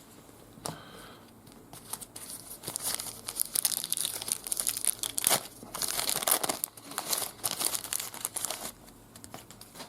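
Trading card pack wrapper crinkling and being torn open, a dense run of irregular crackles starting about two seconds in and easing off near the end.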